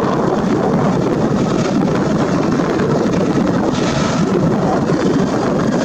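Steady roar of a Boeing 737 MAX jet airliner's engines, with wind buffeting the microphone.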